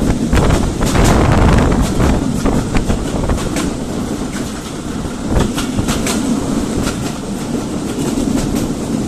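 Freight train of oil tank wagons running on the rails: a steady heavy rumble with wheels clacking irregularly over rail joints.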